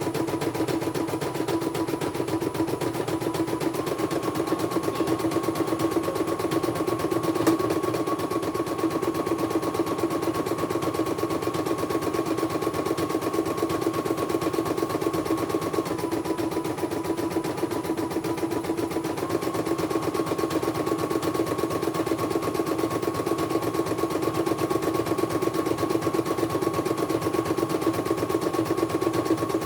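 Computerized embroidery machine stitching at a fast, even rate. Its motor whine steps up and down in pitch a few times, and there is a single sharp click about seven seconds in.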